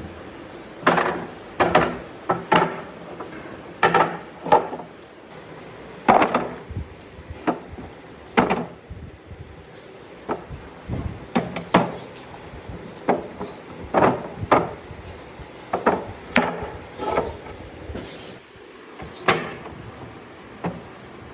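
Irregular series of sharp knocks on wood, roughly one a second and some in quick pairs, each with a short ring, as in hammering or tapping wooden pieces together.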